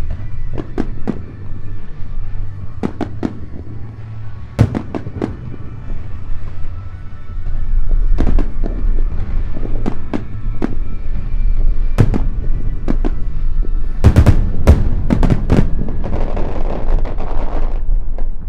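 Fireworks shells bursting in a string of sharp bangs, with a rapid cluster of the loudest bangs about fourteen seconds in and a rush of noise near the end. Music plays underneath.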